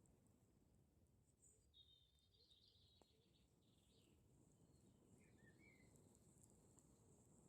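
Near silence: a campfire burning faintly with an occasional crackle, and a bird chirping in short calls twice.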